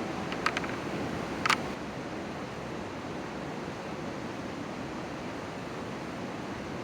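Steady rushing outdoor noise, with a few sharp clicks in the first two seconds.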